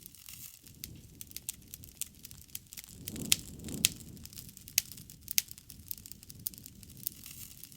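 Bonfire crackling: irregular sharp pops and snaps over a low rumble of flames, with a swell of flame noise and the two loudest pops about three to four seconds in.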